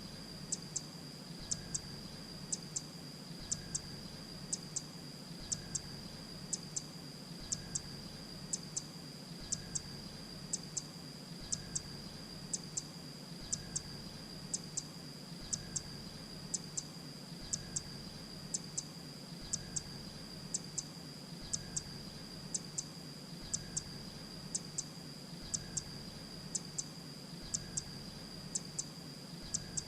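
Grey-breasted prinia calling: pairs of short, very high notes repeated at an even, quick rhythm, over a steady high whine.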